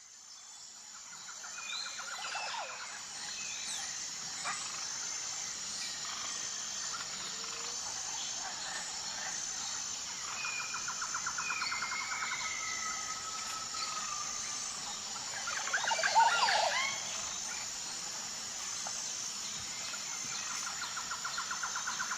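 Outdoor ambience of birds calling, with short trills and whistled glides, over a steady high insect chirping in regular pulses. It fades in over the first two seconds, and a louder burst of calls comes about sixteen seconds in.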